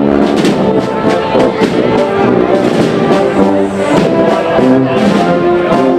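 Brass band playing a processional march, with trombones and trumpets carrying the melody.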